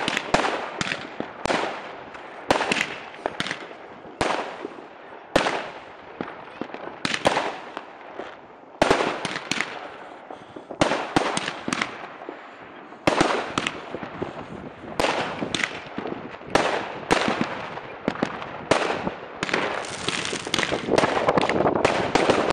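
Fireworks going off: a rapid, irregular string of bangs as shots launch and burst overhead, often several a second, turning into a dense crackle near the end.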